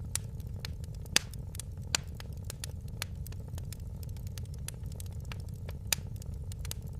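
Fire in a fireplace crackling, with a steady low rumble and frequent small pops; sharper, louder pops come a little over a second in, near two seconds and near six seconds.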